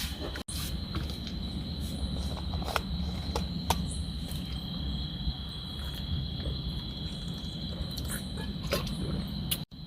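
Night insects chirring in a steady, high, unbroken drone over a low background rumble, with scattered faint ticks.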